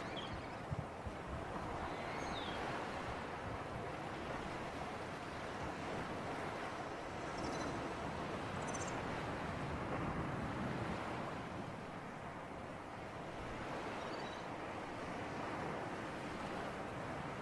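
Sea waves washing and a sea breeze blowing: a steady rushing noise that slowly swells and eases, with a few faint high chirps now and then.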